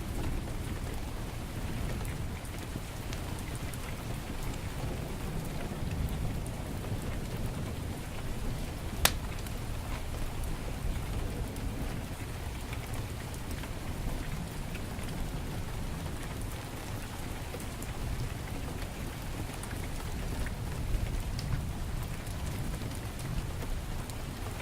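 Heavy rain falling steadily, with a deep background rumble, while a wood fire in a fireplace gives occasional small crackles. One sharp pop from the fire about nine seconds in is the loudest sound.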